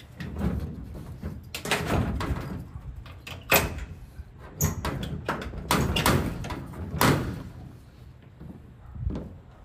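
Gear being handled and stowed: a run of knocks, bangs and scrapes, like a door or drawer sliding and shutting, the sharpest about three and a half and seven seconds in.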